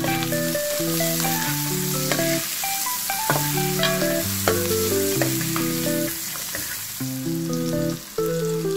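Diced vegetables and sliced hotdogs sizzling as they sauté in oil in a frying pan, with a few sharp ticks of a metal spatula scraping and tapping the pan. Background music with a melody plays throughout.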